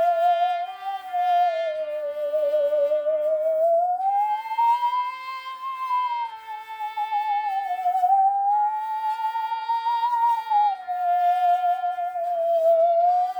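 Musical saw played with a bow, singing a slow melody in one pure tone with a wide vibrato and smooth slides between notes. It plays over a sustained chordal accompaniment.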